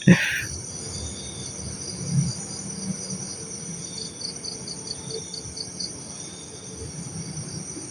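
Night insects trilling steadily at a high pitch, with a quick run of about ten pulsed chirps, around five a second, in the middle.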